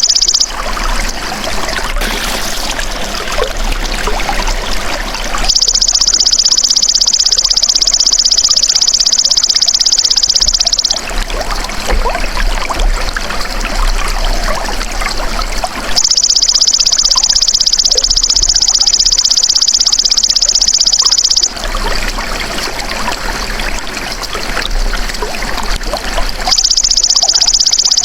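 Belalang emas insect singing a loud, shrill, steady buzz in runs of about five seconds, breaking off and resuming three times, with trickling, running water filling the gaps between runs.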